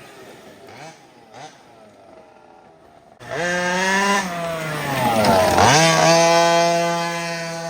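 Small 36cc two-stroke petrol engine of a 1/5-scale RC rally car running at high revs: faint at first with a couple of short blips, then loud from about three seconds in, its pitch dipping sharply and climbing back once before holding high.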